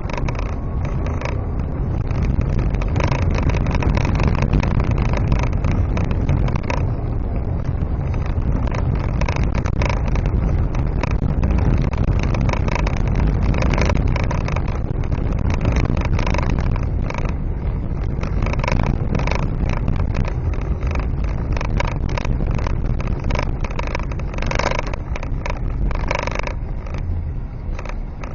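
Motor vehicle driving: a steady low rumble of engine and road noise, with frequent irregular knocks and clicks.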